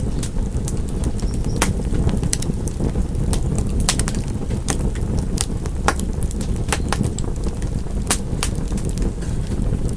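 Wood fire crackling: a steady low rumble of burning with sharp, irregular pops and snaps several times a second.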